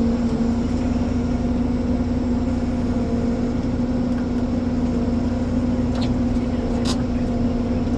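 Ponsse Elephant forwarder's diesel engine running steadily at a constant speed, with two short sharp clicks about six and seven seconds in.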